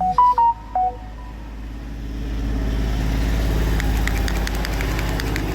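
A few short beeping tones at the start, then an engine running steadily, its sound swelling over a second or two, with a light regular ticking.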